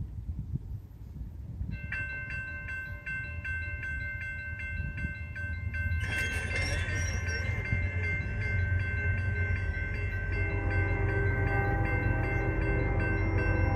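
A railroad grade-crossing bell starts ringing about two seconds in, over the low rumble of an approaching train that grows steadily louder. In the second half a train horn sounds, a chord of steady notes.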